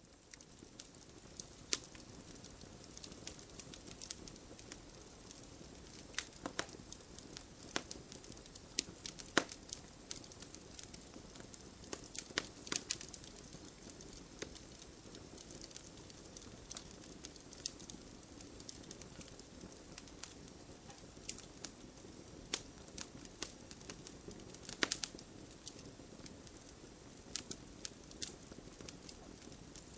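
Wood fire crackling in a fireplace: a steady low hiss with irregular sharp pops and snaps, a few of them much louder than the rest.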